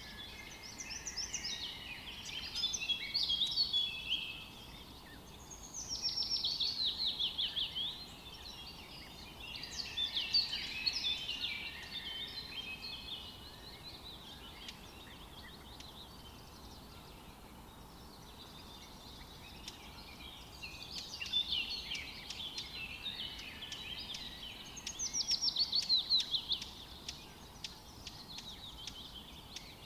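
Songbirds singing in a forest: about five song phrases of two to three seconds each, several made of quick falling runs of notes, with quieter lulls of faint background between them.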